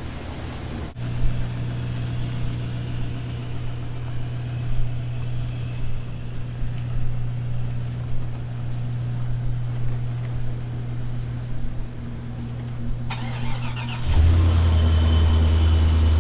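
A vehicle engine running steadily. About 14 seconds in it gives way to a louder, deeper engine hum.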